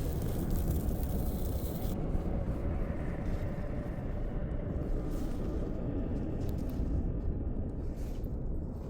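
Blizzard wind: a steady low rumble of gusting wind. A higher hiss drops away about two seconds in.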